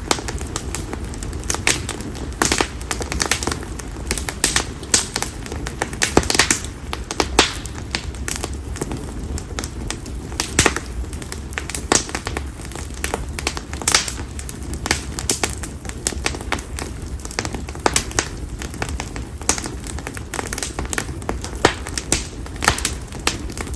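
Bonfire of split konara oak (Quercus serrata) firewood burning, crackling with many irregular sharp pops over a low steady rumble of the flames.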